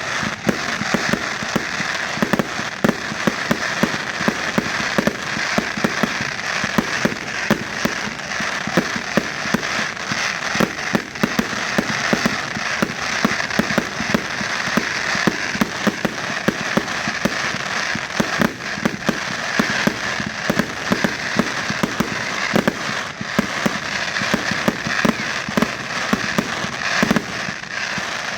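Fireworks display: a dense, continuous barrage of bangs and crackling, many reports a second.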